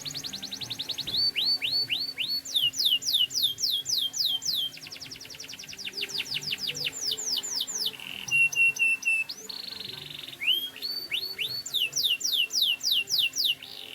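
Domestic canary singing a long, continuous song: fast rolls of rapid down-slurred notes that change every second or two, with brief steady whistled tones between the rolls.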